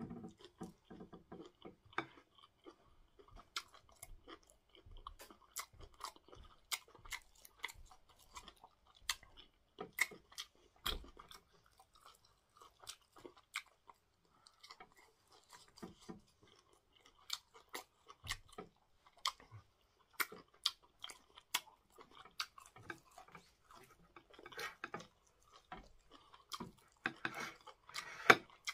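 Close-up mukbang chewing: a man eating cocoyam fufu with bitter leaf soup and meat, with many irregular wet mouth smacks and clicks, a little busier near the end.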